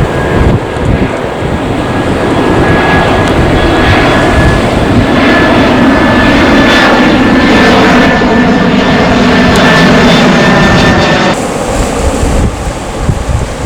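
Airbus A321 jet airliner passing on arrival, its engines giving a steady high fan whine that rises slightly in pitch and grows louder, over low wind rumble on the microphone. The sound changes abruptly near the end.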